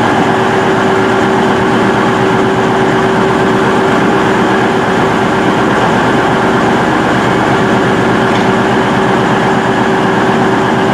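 A train's steady running noise with a constant drone, unchanging throughout.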